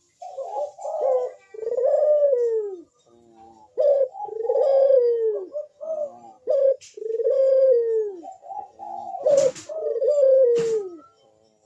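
Ringneck dove (burung puter) cooing over and over: a run of low coos, each phrase curving downward in pitch, the persistent calling of a bird in breeding condition. Two or three sharp clicks cut in during the second half.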